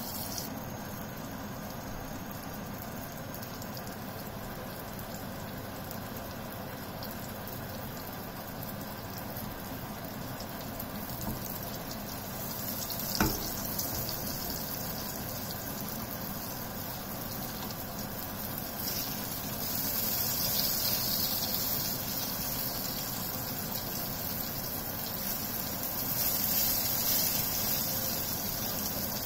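Aubergine slices sizzling steadily in shallow oil in a frying pan. There is a single sharp click about halfway through, and the sizzle grows louder in two stretches near the end as a spatula works the slices.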